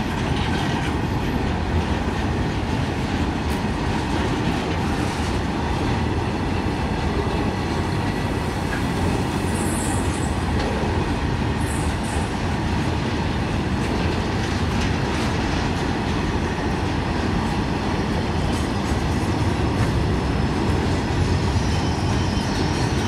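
Loaded BOXN open freight wagons rolling past close by: a steady, heavy rumble of steel wheels on the rails.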